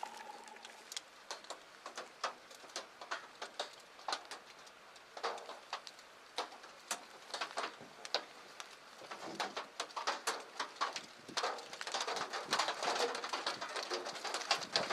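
Irregular patter of raindrops, scattered at first and growing denser and louder about two-thirds of the way through.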